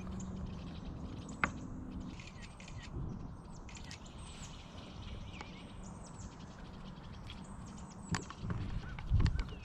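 Small birds chirping and calling, with a sharp click about a second and a half in and a few soft knocks near the end.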